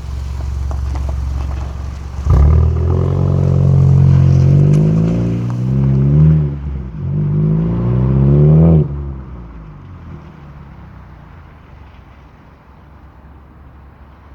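VW Scirocco 2.0 TSI turbocharged four-cylinder engine through a Remus cat-back exhaust with a Supersprint middle pipe, idling and then revved twice. The pitch rises over a few seconds each time before dropping back to a quieter idle about nine seconds in. The engine is warm, not on a cold start.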